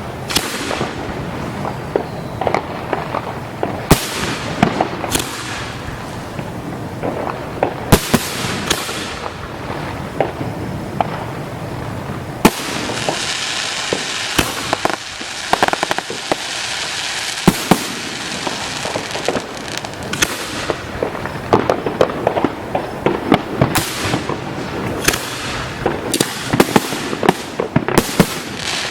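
Fireworks display going off in a steady run of sharp bangs and reports. There are several seconds of dense crackling near the middle.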